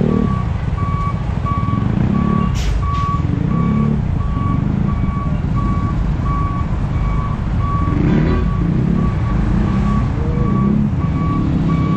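Reverse warning beeper of a reversing truck, sounding evenly spaced beeps about three every two seconds over the truck's engine running. There are brief sharp noises about two and a half seconds in and again around eight seconds.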